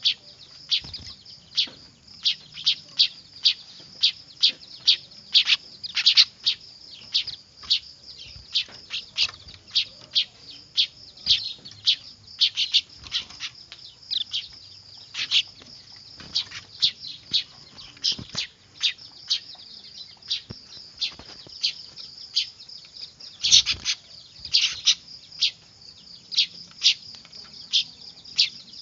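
Young weaver birds calling noisily: a continuous run of short, high-pitched chirps, about two a second, over a steady high chatter.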